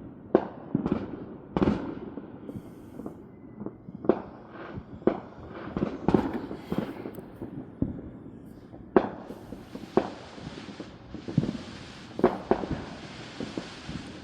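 Fireworks and firecrackers going off, a steady scatter of irregular pops and bangs of varying loudness, some sharp and close, others dull and far.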